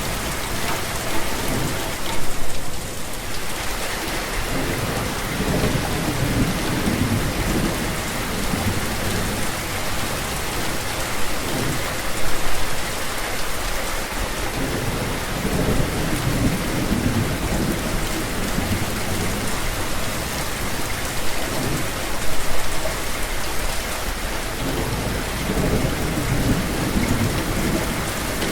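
Steady heavy rain falling on surfaces, with low thunder rumbling in slow swells several times.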